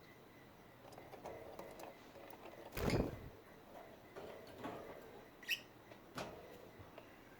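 Pet budgerigars moving in their cage: scattered small clicks and taps, a dull knock about three seconds in, and a single short budgie chirp rising in pitch past the middle.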